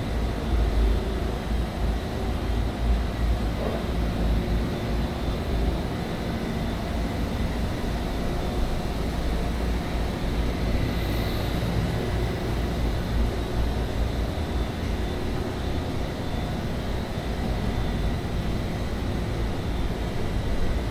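1965 GMC pickup truck driving at a steady speed: a continuous low rumble of engine and road noise.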